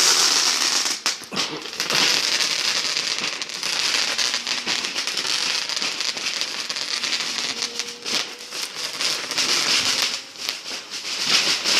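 A firework crackling steadily, a dense stream of sharp pops and crackles that starts abruptly.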